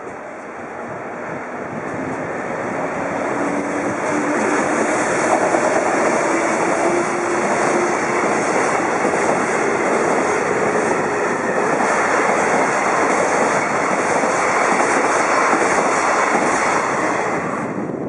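A long container freight train hauled by a JR Freight EF210-300 series electric locomotive passing without stopping. The wheel-on-rail noise builds as it approaches, with a faint rising whine in the first few seconds. It stays loud and even while the container wagons go by, then drops off sharply as the last wagon clears near the end.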